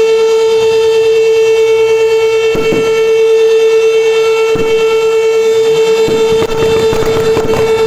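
Siren held at one steady, loud pitch, its tone unwavering. Scattered knocks and clatter are heard in the second half.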